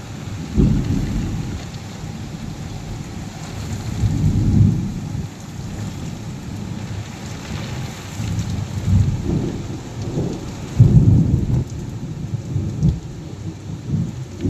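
Heavy rain pouring steadily, with several low rumbles of thunder coming and going; the loudest rumble is about two-thirds of the way through.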